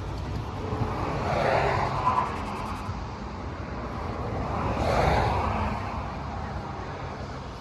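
Road traffic: two vehicles pass one after the other, each a swell of noise that rises and fades, about two seconds in and again about five seconds in, over a steady low rumble.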